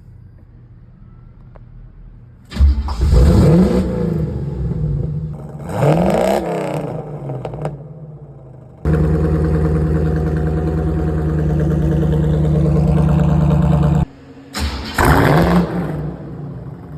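Exhaust of a 1984 C4 Corvette's 5.7-litre V8, fitted with a Flowchaser dual-in/dual-out muffler. It idles low at first, is blipped twice with the pitch rising and falling about two and a half and six seconds in, is held at a steady higher speed for about five seconds, and then gets one more sharp rev near the end.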